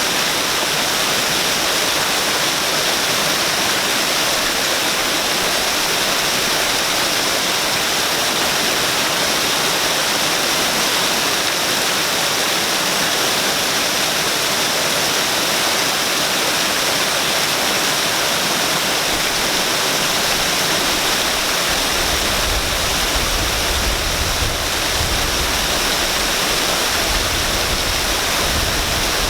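Waterfall in Shinjuku running steadily: a dense, even rush of falling water. A low rumble joins in about three quarters of the way through.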